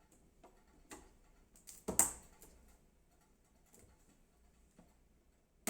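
A few light clicks and knocks of computer parts being handled and fitted onto a motherboard, the loudest about two seconds in and a sharp click at the very end.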